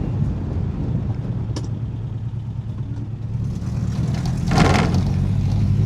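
Ford Taunus 17M's 1.7-litre V4 engine running under way, heard from inside the cabin. It gets louder about four seconds in, with a brief noisy rush just after.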